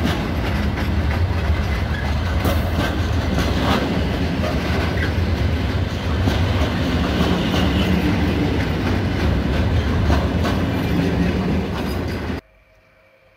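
Freight train's container-loaded flat wagons rolling past close by: a steady low rumble of wheels on rail with rapid clicks as the wheels cross rail joints. The sound cuts off suddenly near the end.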